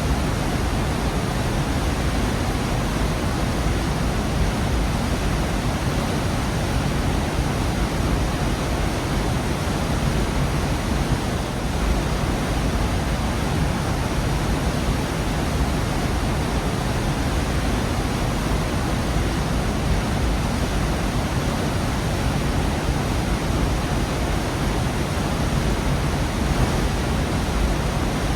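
Waterfall in a rock gorge: water pouring and crashing in a steady, unbroken rush.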